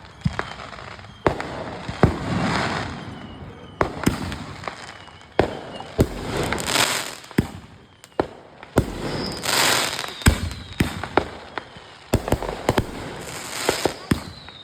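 Fireworks going off: a string of sharp bangs at irregular intervals, with several bursts of hissing crackle between them.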